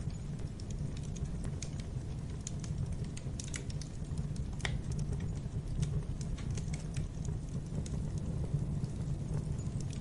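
Wood fire crackling in a fireplace: irregular sharp pops and snaps over a steady low rumble of the flames, with one louder pop about halfway through.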